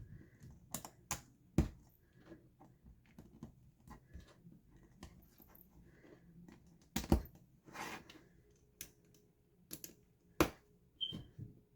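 Small plastic building-block pieces clicking and clacking, irregularly, as they are picked through and snapped together; the loudest knocks come about a second and a half in and around seven seconds in.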